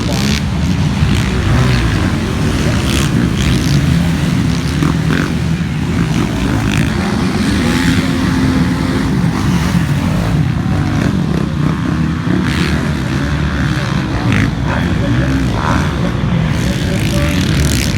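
Several motocross bikes running on the track at once, their engine pitches rising and falling as they rev and shift in a continuous mix.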